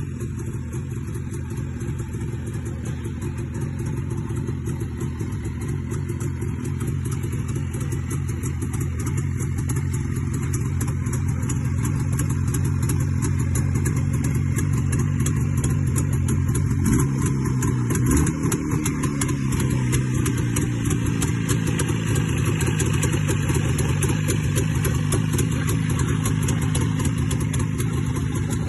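Jawa 350 type 638 two-stroke twin-cylinder motorcycle engine running steadily just after its first start of the season, cold. It grows gradually louder, with a brief change in pitch about two-thirds of the way through.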